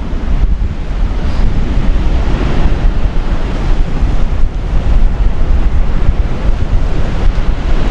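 Wind buffeting the microphone in a heavy, uneven rumble, with ocean surf washing behind it.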